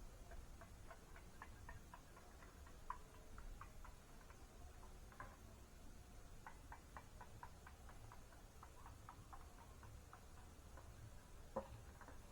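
Faint, irregular small clicks and ticks over near silence, with one sharper click near the end.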